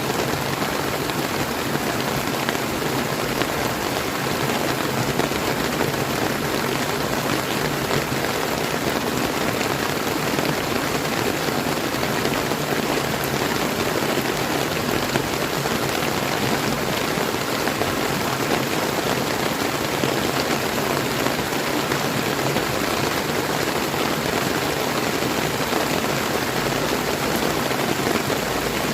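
Steady rain falling on a clear river, a dense, even hiss of raindrops over flowing water.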